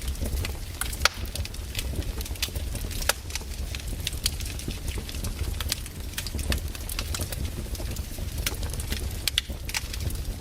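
Firewood burning, crackling with irregular sharp pops over a steady low rumble.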